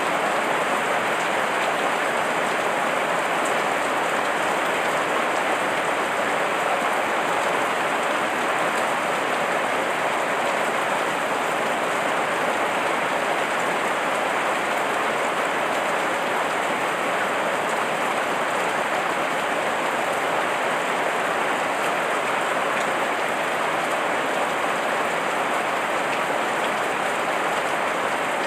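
Heavy rain falling steadily, with an even, unbroken hiss of many drops.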